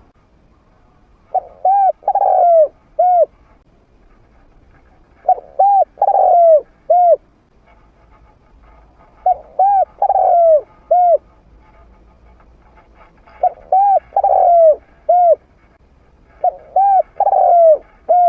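Spotted dove cooing, a trained bird with a mid-pitched voice: five call phrases about four seconds apart, each a few short coos around one longer, falling coo.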